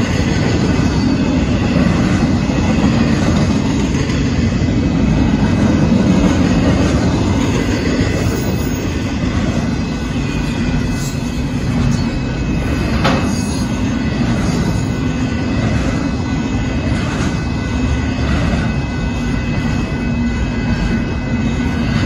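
Double-stack intermodal container train rolling past at speed: a steady rumble of steel wheels on rail with thin high squealing tones above it, and a single sharp knock about 13 seconds in.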